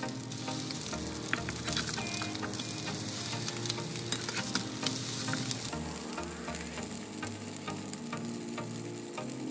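Egg-battered thin slices of beef sizzling in oil in a nonstick frying pan, with a steady hiss and many small pops. Wooden spatulas click and scrape against the pan as the slices are turned over.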